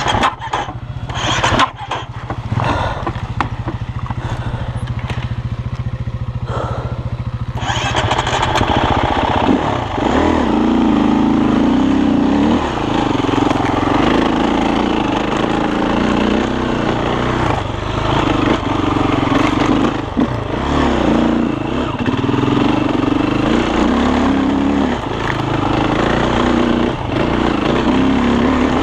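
Enduro dirt bike engine running at a steady low idle, with a few knocks early on. About eight seconds in it picks up and keeps revving up and down as the bike rides over rough ground.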